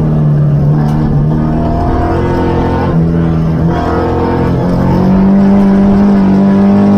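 Opel Ascona B rally car's four-cylinder engine under hard load, heard from inside the cabin. The note holds steady, breaks briefly about three seconds in, then the revs climb and stay high near the end.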